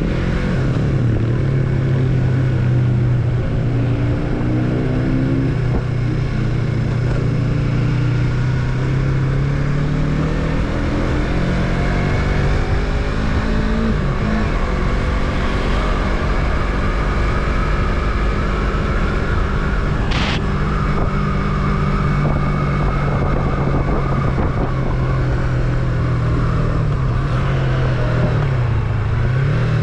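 Yamaha MT-03's parallel-twin engine running under way, its pitch rising and falling several times as the bike speeds up and slows. A brief high-pitched sound cuts in once about twenty seconds in.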